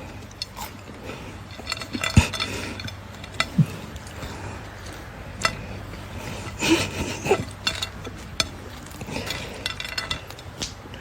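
Irregular clinking and clattering of hard objects, with a dozen or so sharp clicks and knocks, over a low steady hum.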